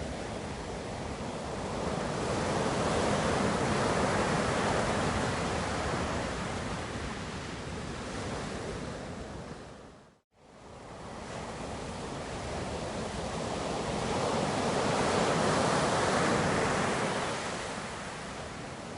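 Ocean surf, waves washing in and swelling twice. The sound fades out to a moment of silence about halfway through, then fades back in.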